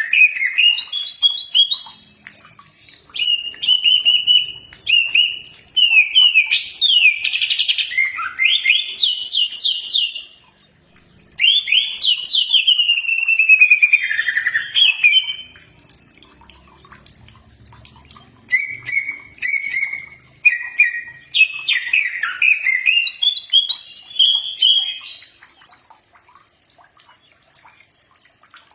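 Cucak ijo (green leafbird) singing: varied whistled chirps and rapid trills in bouts of several seconds, broken by short pauses, the kind of song used as masteran to tutor caged birds.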